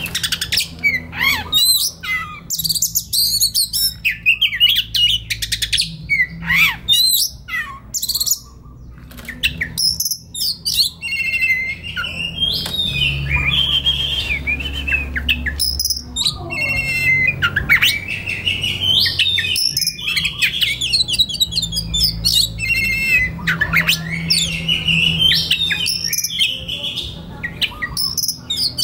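Oriental magpie-robin singing continuously: a varied song of clear whistles, rising and falling glides and quick chattering notes, over a low steady hum.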